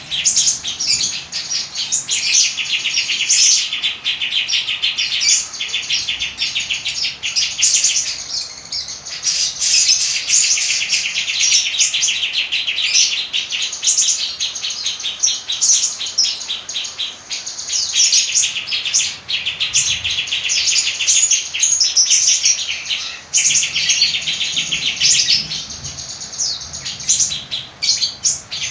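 Songbird singing a loud, continuous, fast chattering song of rapid trills and sharp high notes, with only brief pauses. It is the aggressive 'fighter' style of song that bird keepers play to provoke silent caged birds into singing.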